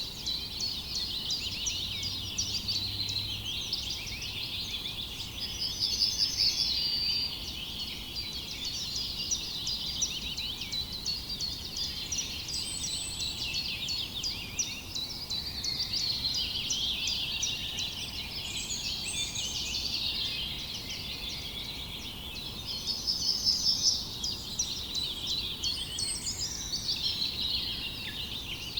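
A dense chorus of many small songbirds chirping and twittering over one another without a break, with rapid, louder trills about six seconds in and again near the end.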